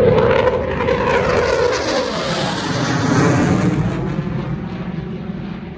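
Fighter jet engine noise, loud at first, with a pitch that falls as the jet goes past. The hiss drops off about four seconds in and the sound fades toward the end.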